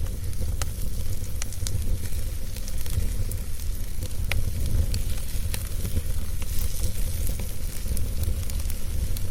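Wood fire burning, with irregular sharp crackles and pops over a steady low rumble and hiss.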